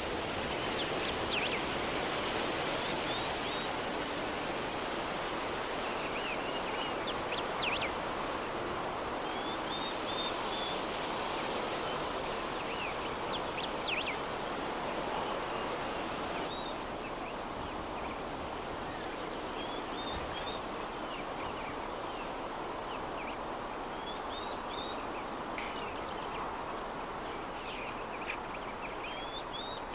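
Steady soft breeze blowing, an even rushing hiss that eases slightly about halfway through, with short bursts of bird chirping coming every few seconds.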